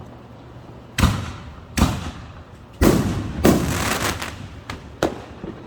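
Fireworks going off: about six sharp bangs over four seconds, starting about a second in, with a crackling stretch in the middle.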